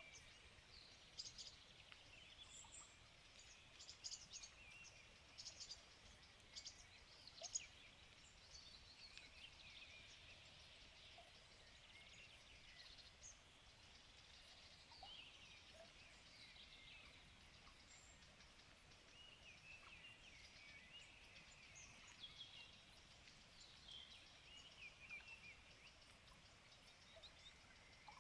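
Faint chorus of small birds singing and chirping, many overlapping calls. The calls are densest and loudest in the first eight seconds or so.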